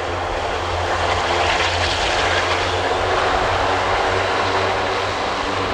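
Airbus A400M's four TP400-D6 turboprop engines running as the transport rolls along the runway after landing, a steady propeller drone over a low hum. It grows a little louder through the middle and eases off toward the end.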